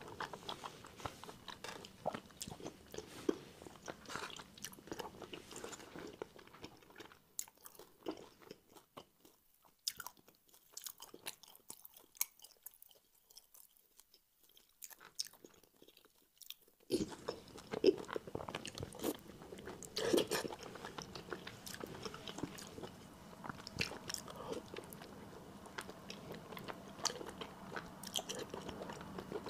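Close-miked mouth sounds of a person chewing rice and soft, glazed braised pork belly, with wet smacks and small clicks. The chewing drops almost away about eight seconds in and picks up sharply again about seventeen seconds in.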